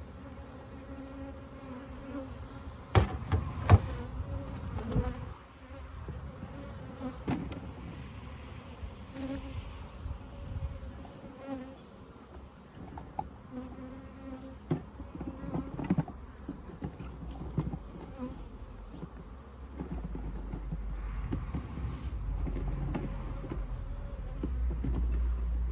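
Honeybees buzzing in a steady hum around an open hive. Sharp knocks and clicks come now and then, loudest about three seconds in, and a low rumble rises over the last few seconds.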